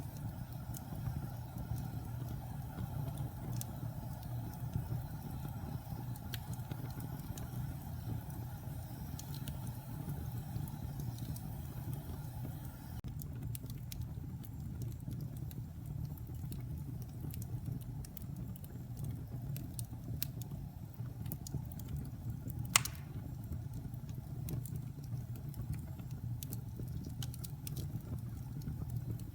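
Wood fire burning in a fireplace: a steady low roar of flames with scattered small crackles, and one sharp, louder pop about three-quarters of the way through.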